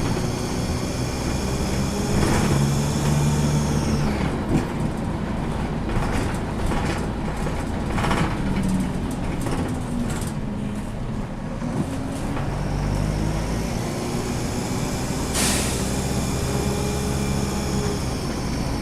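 A DAF SB120 bus's diesel engine running through its Allison automatic gearbox, the engine note climbing and dropping twice as it pulls away and shifts. About two-thirds of the way through, a short sharp hiss of air, typical of the air brakes.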